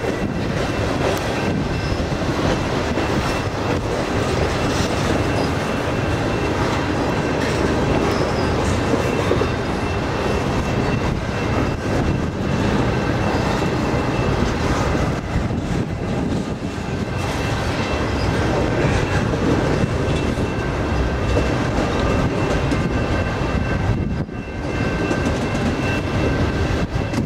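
Double-stack container train's well cars rolling past close by: a steady rumble and clatter of steel wheels on the rails, with a faint high squeal from the wheels.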